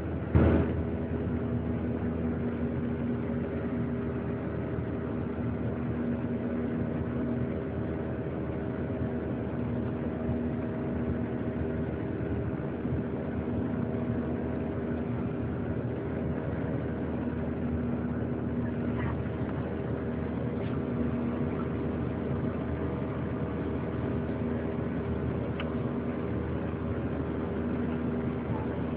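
Boeing 737-800 jet engines (CFM56-7B) heard from inside the passenger cabin: a steady drone with several held tones and a rushing noise. There is one loud thump about half a second in.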